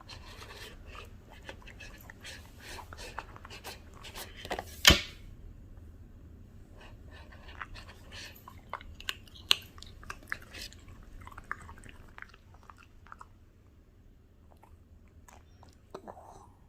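A Bichon Frise crunching and chewing a raw vegetable or fruit snack in a run of crisp crackles, with one loud sharp knock about five seconds in; the chewing thins out over the second half.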